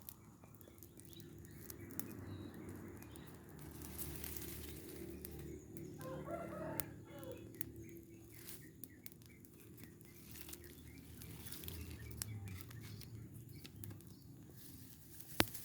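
A rooster crowing once, faint, about six seconds in, over a low steady rumble with scattered small clicks and crackles and a sharp click near the end.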